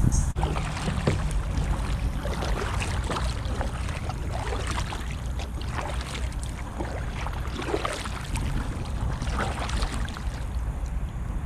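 Creek water moving and splashing, with a heavy wind rumble on the microphone.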